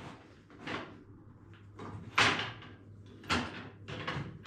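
A saw's rip fence being slid along its rail and knocked into position: four short scraping knocks, the loudest about two seconds in.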